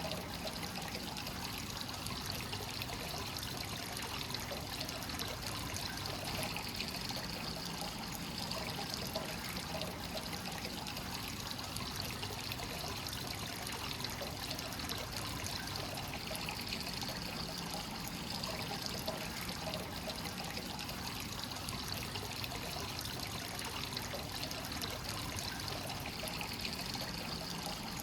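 Hot-spring water pouring steadily into a bath from a free-flowing spring inlet, a continuous trickling splash.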